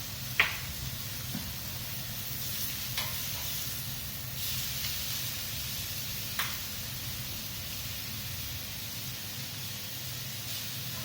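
Marinated vegetables sizzling steadily on a gas grill, with a few sharp clicks: the loudest about half a second in, and fainter ones about three and six seconds in.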